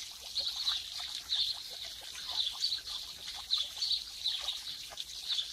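Small birds chirping in the background, short high chirps repeating irregularly several times a second, over a faint hiss.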